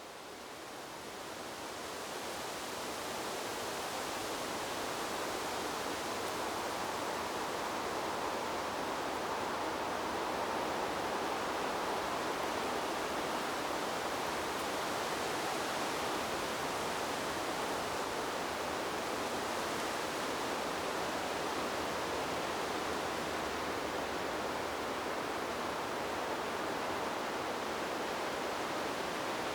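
Wind rushing through trees as a steady, even hiss with no gusts or distinct rustles. It fades up over the first few seconds, then holds level.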